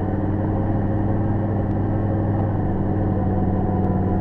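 Off-road truck's engine running at a steady, unchanging pitch.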